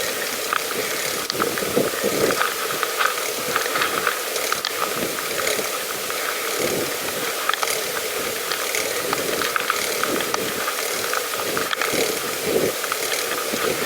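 Pedal bicycle's mechanism clicking and rattling steadily as it is ridden, a busy ratchet-like ticking over a constant hiss of movement.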